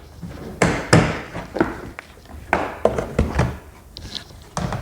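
A small toolbox being handled, with a series of separate knocks and taps, about six in all.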